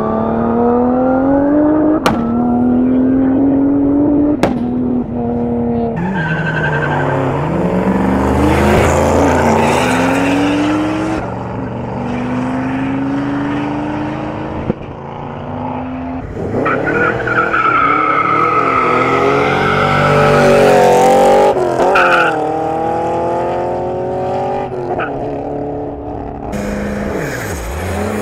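Drag-racing cars accelerating hard down a quarter-mile strip, the engine pitch rising through each gear and dropping at every shift, several runs one after another. Stretches of tyre squeal are heard along with it.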